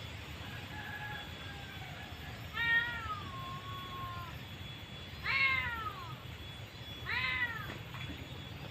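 A cat meowing repeatedly: a faint drawn-out meow, then three louder meows a couple of seconds apart, each rising and falling in pitch.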